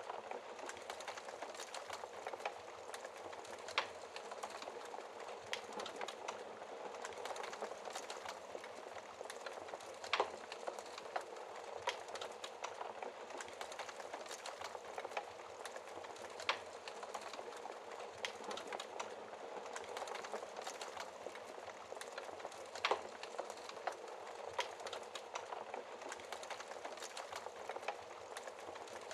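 Wood fire crackling steadily with dense small snaps and a few louder log pops several seconds apart, over a steady hiss of rain.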